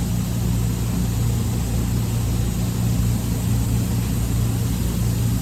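Steady low machine hum, running without change at one constant low pitch.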